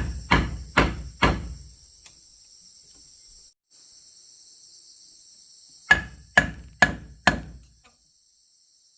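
Hammer blows on wood in quick runs of about two strikes a second: three near the start, then four more about six seconds in. A steady high drone of insects runs underneath.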